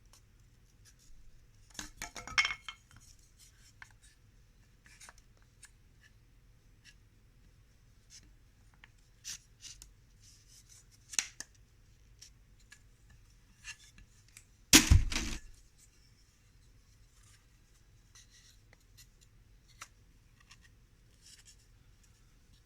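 Wooden beehive parts being handled and fitted together, the bottom board going in between the glued side panels: scattered light knocks and scrapes, a louder clatter about two seconds in, and one heavy wooden thud about fifteen seconds in.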